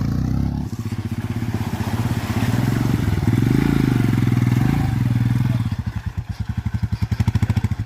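Motorcycle engine running, its pitch rising and falling around the middle, then slowing to a fast, even pulsing beat near the end.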